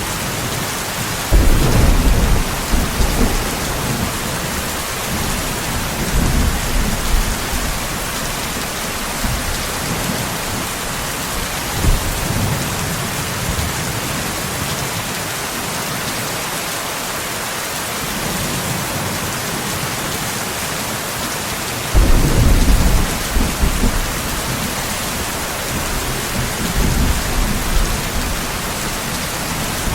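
Steady heavy rain with thunder rumbling five times. The loudest peals break in suddenly about a second and a half in and again about 22 seconds in, and weaker rumbles come near 6, 12 and 27 seconds.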